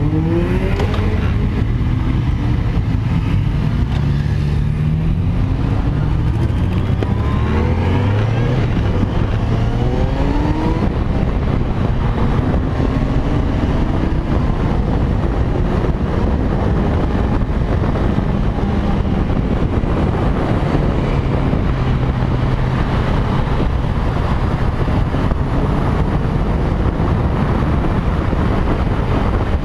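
Kawasaki Z1000's inline-four engine pulling away and accelerating up through the gears in repeated rising sweeps, the pitch dropping back at each upshift. Later it holds steadier at speed, with wind rushing over the bike-mounted microphone.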